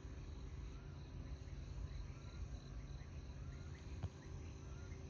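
Outdoor insect chorus: a faint, pulsing high chirr with short repeated chirps, over a steady low rumble. A single soft tick comes about four seconds in.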